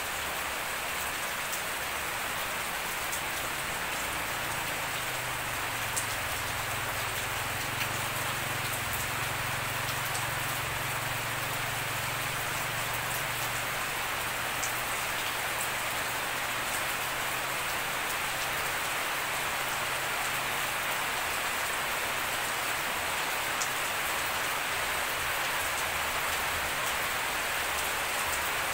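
Steady rain falling on a grassy garden, leaves and puddles, an even hiss with a few single drops striking close by.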